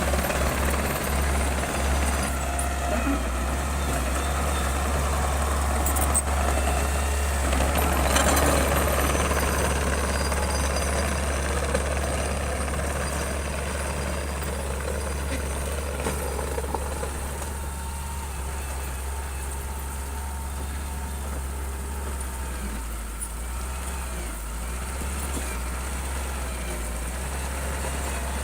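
Bulldozer's heavy diesel engine running steadily, with a couple of sharp metallic clanks and a rise in level about eight seconds in, easing off somewhat in the second half.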